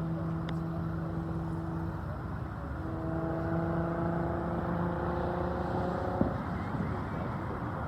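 A steady mechanical hum at one constant pitch, cutting off suddenly about six seconds in, over a steady outdoor background noise. There is a faint sharp crack about half a second in.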